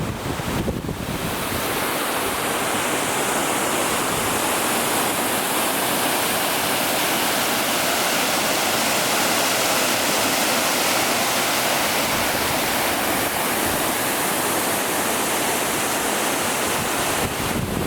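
Waterfall rushing as a steady, even hiss. Low wind buffeting on the microphone dies away about a second in and returns near the end.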